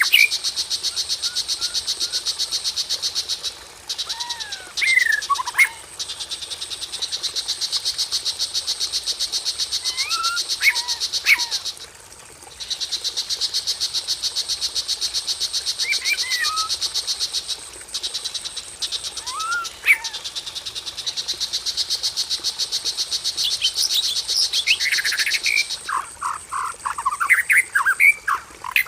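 Recorded songbird lure track: a fast, buzzing high trill in long bouts of several seconds with brief breaks, over which a white-rumped shama gives single whistled notes sliding up and down every few seconds, then a quick run of varied song near the end.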